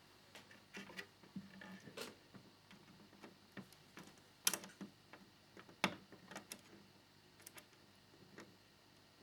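Irregular small clicks and taps of plastic model fairing parts and a small screwdriver being handled during assembly, with two sharper clicks about four and a half and six seconds in.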